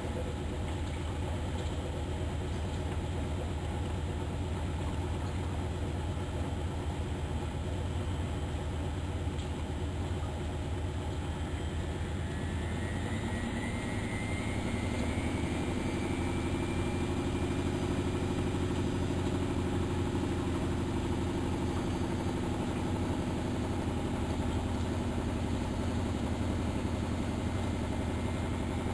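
Miele Novotronic Meteor 2200 washing machine running with a steady low hum; about halfway through its motor speeds the drum up, with a rising whine and a slight growth in loudness. Its drum dampers are, by the owner's own account, no longer in good shape.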